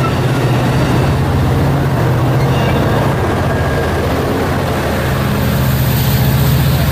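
Diesel locomotive engine running with a steady low drone that dips slightly about halfway through.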